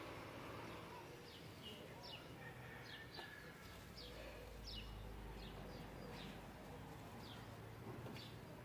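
Small birds chirping faintly in the background: short, high, downward chirps, irregularly spaced, over a low steady hum.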